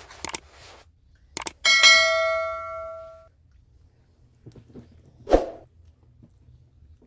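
A metal object struck once, about a second and a half in, ringing out and dying away over about a second and a half. A few sharp knocks come before it and another knock about five seconds in.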